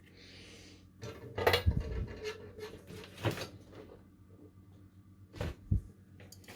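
Small tools and electronic parts being handled on a workbench: a run of clicks and light knocks, with two sharper knocks near the end.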